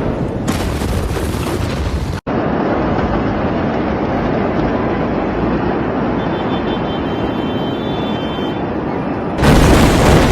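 Rumble and roar of a very large explosion, a dense noisy sound that cuts off abruptly about two seconds in and resumes at once, with a louder blast coming in near the end.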